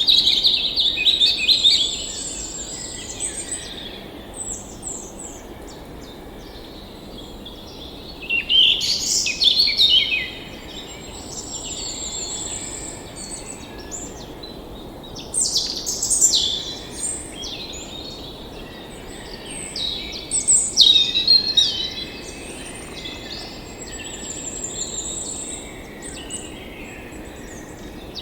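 Several songbirds singing and chirping in spells a few seconds apart, with quieter calls between, over a steady background hiss.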